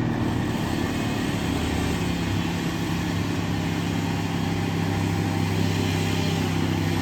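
Morbark wood chipper's engine running at a steady, unchanging pitch, with no branches being chipped.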